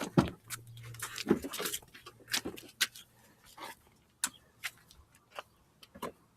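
Irregular clicks and knocks of objects being handled, about fifteen in all, a few with a dull thump, over a faint steady hum that fades out about halfway through.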